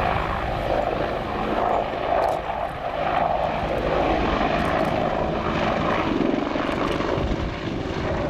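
AH-64 Apache attack helicopter flying low and manoeuvring: a steady, loud rotor and engine noise with the fast chop of the main rotor blades.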